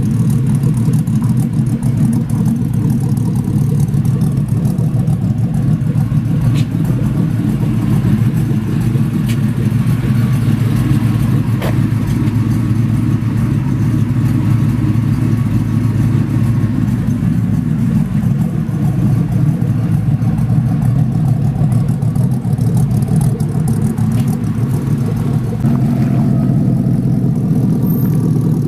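2005 Hummer H2's cammed 6.2-litre V8, fitted with a Stage 2 Melling MTC-8 camshaft and a true dual 3-inch aFe Mach Force cat-back exhaust, idling steadily, heard from the exhaust.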